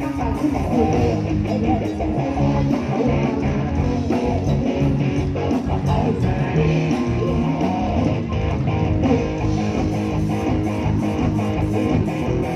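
Live band playing an instrumental passage led by guitar, with bass and a steady drum beat.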